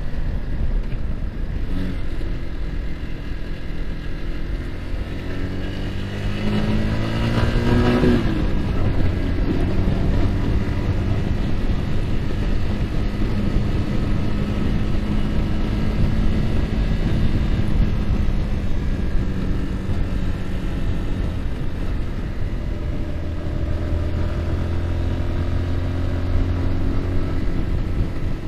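Yamaha R15's single-cylinder engine running at riding speed under heavy wind noise on the microphone. The engine note rises for a couple of seconds about six to eight seconds in, then holds steady.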